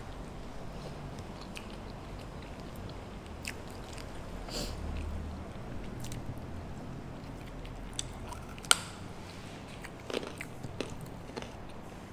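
Close-miked chewing and biting of food, with a few sharp crunches. The loudest crunch comes about nine seconds in.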